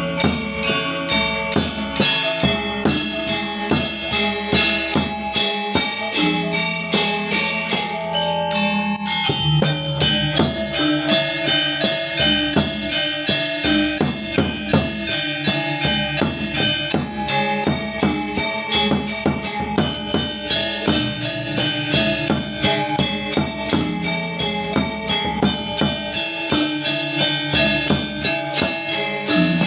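Balinese gamelan gong ensemble playing: dense, rapid bronze metallophone strikes ring over held low gong tones that change pitch every few seconds. The high cymbal-like shimmer drops out briefly about nine seconds in.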